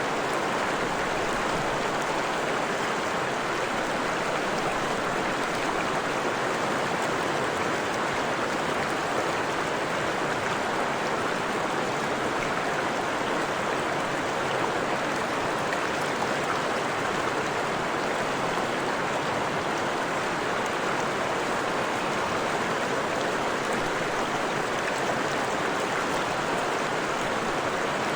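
A forest stream flowing over rocks: a steady, even rush of running water that does not change.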